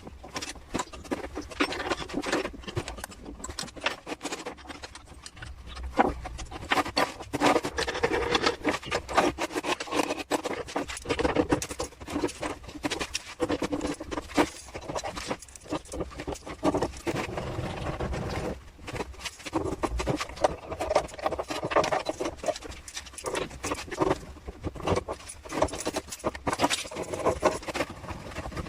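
Irregular tapping, knocking and scraping of hand work on parts in a workshop, with no motor running.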